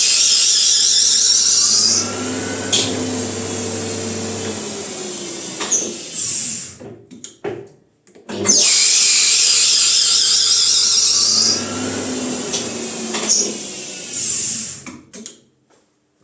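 Small metal lathe, with a bicycle disc brake fitted, run up to full speed twice. Each run starts with a loud high-pitched hiss for about two seconds over a steady motor hum. The hum then cuts off and the spindle winds down in falling tones, followed by a few clicks.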